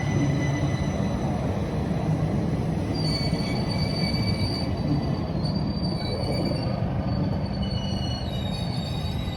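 Rhaetian Railway regional train running on the Bernina line: a steady low rumble of wheels on rails, with thin high wheel-squeal tones coming and going from about three seconds in.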